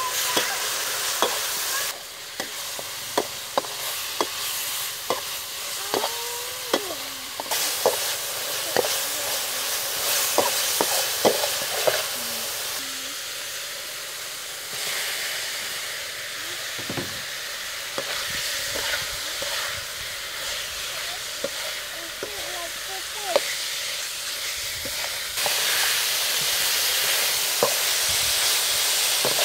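Yellow spice paste sizzling in a steel wok while a metal spatula scrapes and clacks against the pan. Later, chunks of eel fry in the paste as it is stirred.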